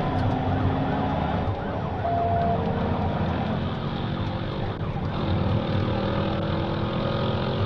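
Police siren wailing over steady engine and road noise from a patrol car at pursuit speed.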